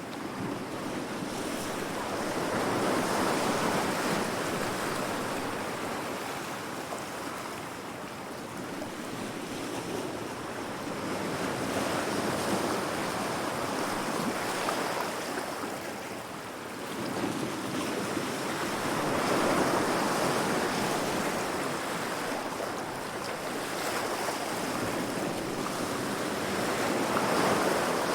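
Heavy sea waves breaking against rocks: a continuous rush of surf that swells and ebbs, with four big surges about eight seconds apart.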